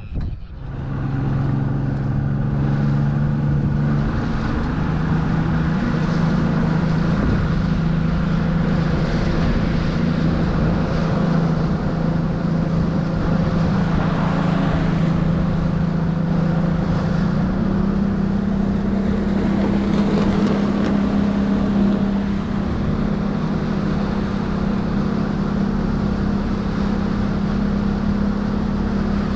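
Outboard motor on a skiff running under way, its engine note stepping up in pitch a few seconds in and again about halfway through.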